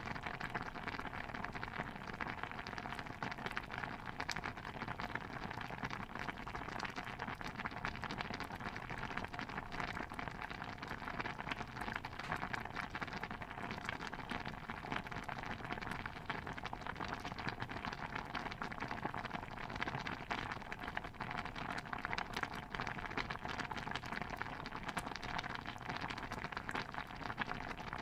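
A steady, dense patter of many small crackles and drips, like bubbling or falling water, with no single event standing out.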